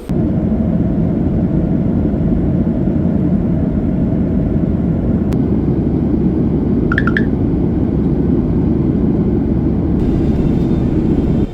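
Steady, loud low rumble of a moving vehicle heard from inside, with a short high chirp about two thirds of the way through.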